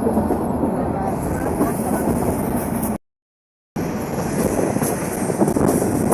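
Bangladesh Railway passenger train running along the track: a steady rumble and rattle of the wheels and carriages. The sound cuts out completely for under a second about three seconds in, then resumes.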